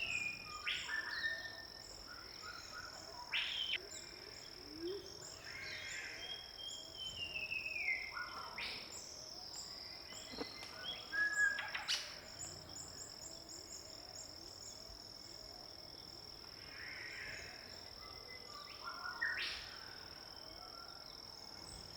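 Wild rainforest birds calling now and then, including a few falling whistled calls, over a steady high-pitched insect drone.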